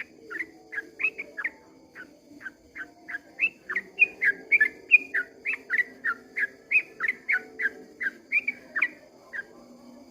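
Yellow-vented bulbul (trucukan) singing a long rapid run of short whistled chirps, about three a second, stopping near the end.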